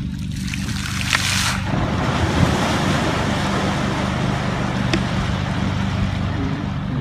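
A motor running steadily with a low hum, and water: a short rushing burst about a second in, then a wash of surging, splashing water.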